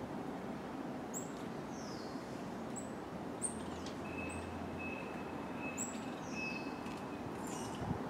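Small birds calling: short, sharp, very high chirps, several sliding down in pitch. From about four seconds in, a run of five short, even, whistled notes repeats at a steady pace. All of it sits over a steady background noise.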